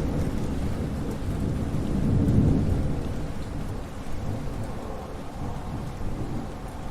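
Thunderstorm: a deep roll of thunder swells to its loudest about two seconds in and then slowly rumbles away, over steady rainfall.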